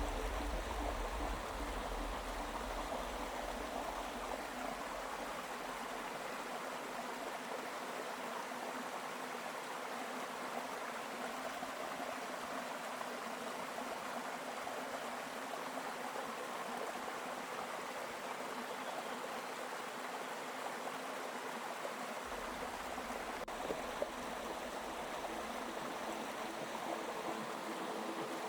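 River water flowing: a steady rushing of water with one brief click near the end.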